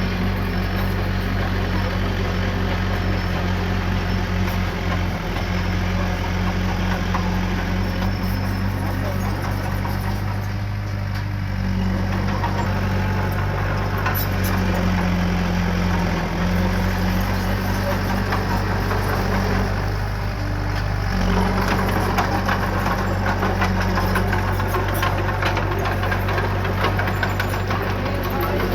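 Diesel engine of heavy earthmoving equipment running steadily, its note shifting briefly twice, about a third and two-thirds of the way through, as the load changes.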